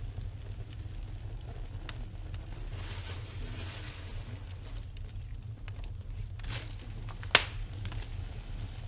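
Wood fire crackling in a fireplace over a steady low rumble, with scattered small pops and one loud sharp pop about seven seconds in.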